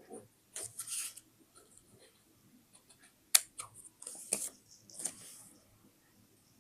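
Paper craft sounds at close range: short rustles of paper and scattered sharp clicks, the loudest a single sharp click a little over three seconds in.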